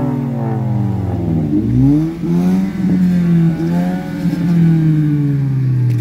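Honda Fit's four-cylinder engine being revved while parked: the revs fall off, rise sharply about two seconds in, hold, then die away slowly toward the end.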